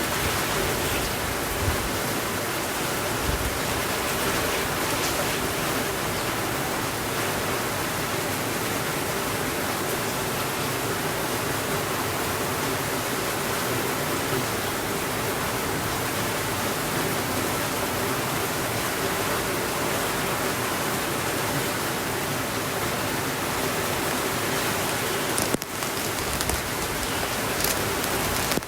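Steady rainfall, an even hiss without letup, with a brief dip and a few faint clicks near the end.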